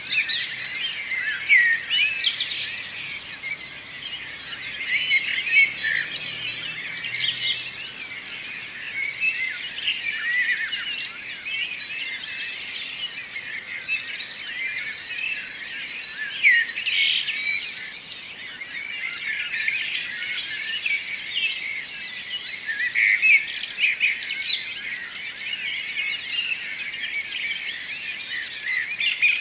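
Morning chorus of many songbirds, with short chirps, trills and whistles overlapping continuously.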